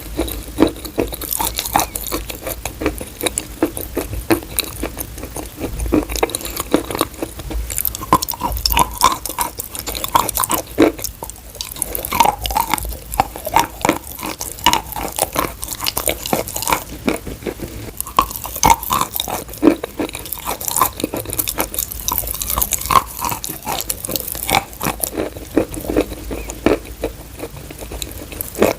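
Close-miked chewing and crunching of chalk: a dense run of crackly bites and chews, with a brief lull about eleven seconds in.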